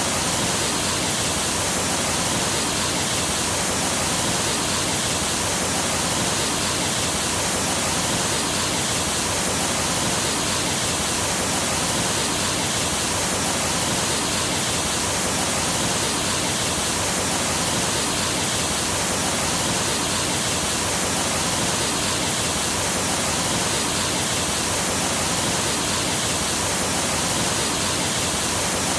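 Rushing water of a rainforest stream: a steady, unbroken hiss with no change in level.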